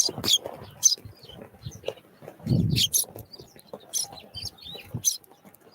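Small wild songbirds calling with many short, high chirps. A dull low thump comes about two and a half seconds in.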